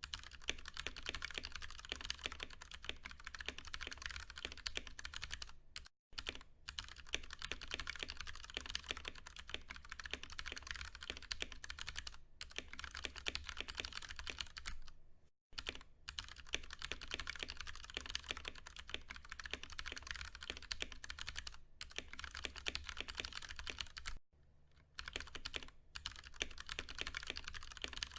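Fast, continuous typing on a Ducky One 2 Mini mechanical keyboard with Cherry MX Brown tactile switches: a dense run of keystrokes, broken by brief pauses about six, fifteen and twenty-four seconds in.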